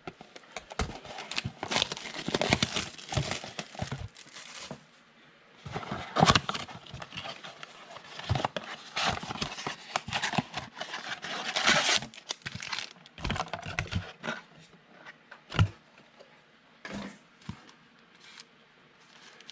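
Wrapper of a 2020 Chronicles football card pack being torn open and crinkled, in rustling bursts for about twelve seconds, then fainter scattered ticks and rustles.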